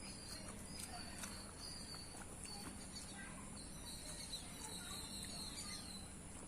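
Faint background ambience: a steady high-pitched chirring with short intermittent chirps above it, like insects and birds, and a few small clicks.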